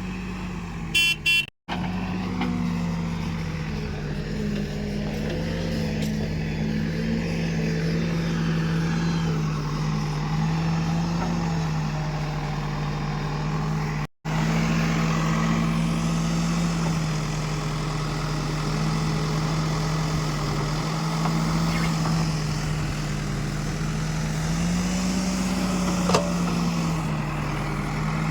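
Escorts Digmax backhoe loader's diesel engine running steadily while it works, its pitch rising and falling slightly with the load. A short horn-like tone sounds about a second in.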